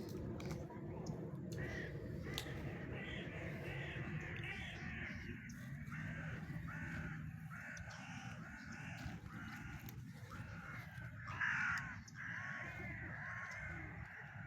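A flock of birds calling, many short harsh calls overlapping one another, with a louder burst of calls near the end, over a steady low rumble.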